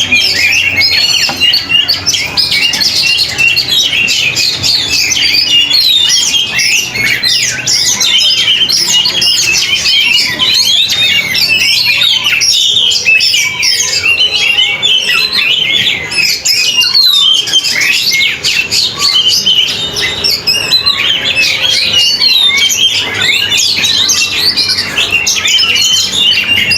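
Oriental magpie-robin (kacer) singing on and on in fast, varied phrases of chirps and whistles, dense and unbroken.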